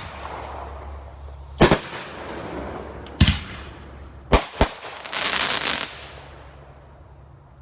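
Consumer fireworks going off in a chained sequence: four sharp bangs with echoing tails, the last two close together, then about a second of dense hissing near the end that fades away.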